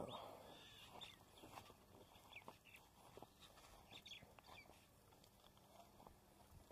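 Near silence with a few faint, scattered bird chirps over a low background hiss.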